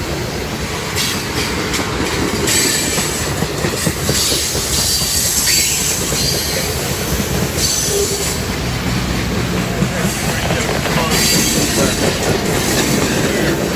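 Long freight train's cars rolling past close by: a steady loud rumble of steel wheels on rail, with a high-pitched wheel squeal that comes and goes several times.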